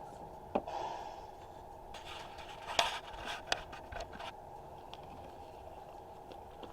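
Small electric motor and gearbox of an RC scale tractor whirring steadily, with a few sharp clicks and scrapes, the loudest about three seconds in.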